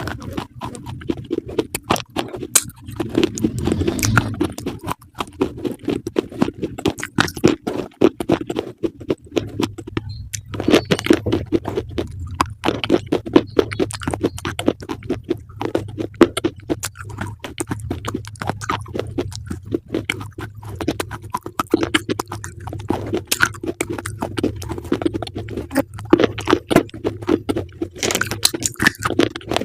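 Close-up crunchy chewing: a fast, irregular run of crisp crunches as a person bites and chews crisp food.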